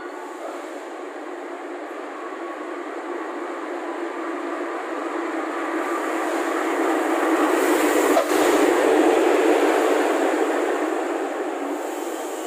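Diesel locomotive hauling a passenger train along a station platform, its engine and wheels growing louder as it draws level and passes close by about eight seconds in, then easing off as the coaches roll past.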